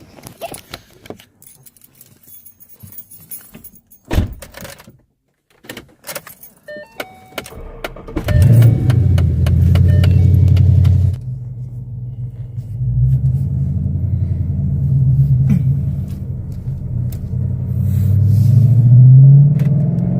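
Keys jangling and scattered clicks inside a car, then about eight seconds in the car's engine starts and runs loudly. It settles a little lower after a few seconds and rises again near the end as it is revved.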